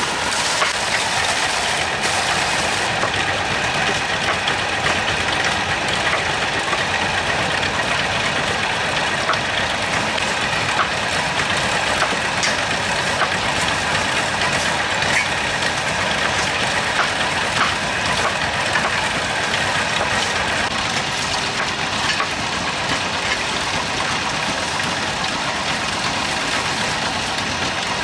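An engine running steadily, with scattered light ticks over it.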